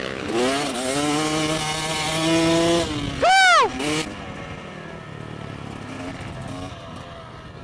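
Motorcycle engines revving, their pitch climbing then holding. About three seconds in comes one sharp, loud rise-and-fall in pitch, the loudest moment, before the engine sound settles to a quieter drone that fades.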